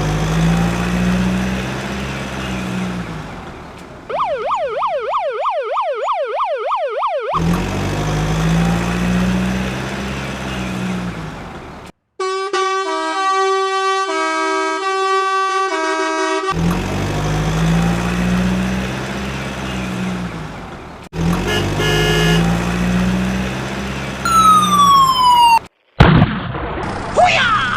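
A string of vehicle sound effects: a low engine-like hum, then a fast up-and-down wailing siren for about three seconds, then a short jingle of plinked notes, then more engine hum, a falling whistle and a few quick effects near the end.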